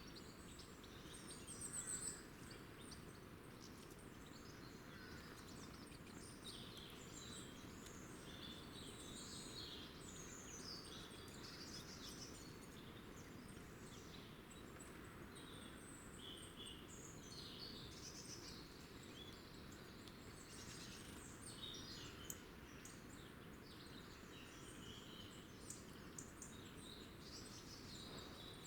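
Faint chirping and twittering of small birds, many short calls overlapping throughout, over a steady low background rumble.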